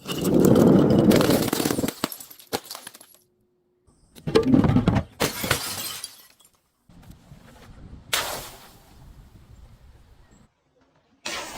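Glass breaking and crunching in four separate bursts a few seconds apart, each fading out over a second or two.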